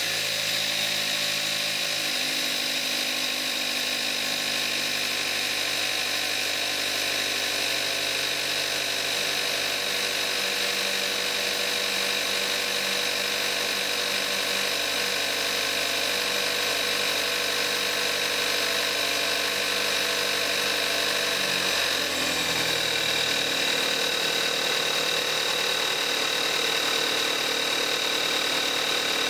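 2014 Kia Forte5's 2.0-litre GDI four-cylinder engine idling just after a cold start, with a steady high-pitched whine over it. About 22 seconds in, the fast cold idle drops to a lower, slower idle.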